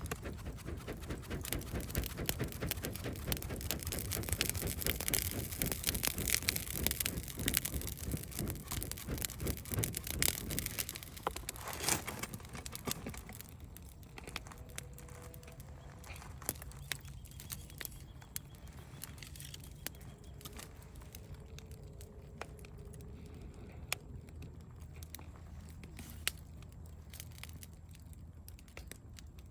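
Campfire crackling: thick, irregular pops and crackles for about the first half, thinning to sparser snaps later.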